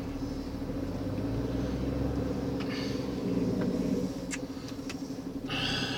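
Motor vehicle engine idling, a steady low hum, with a couple of faint clicks around the middle.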